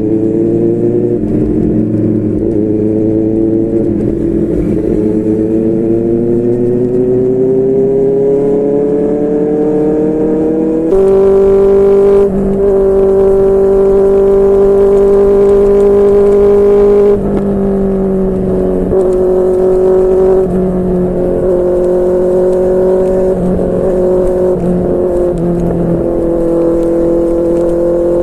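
QJMotor SRK600's inline-four engine through a Yoshimura R11 exhaust, running on the road: the note climbs slowly for about ten seconds, then jumps louder and higher and holds for about six seconds before dropping back to a steady cruising note.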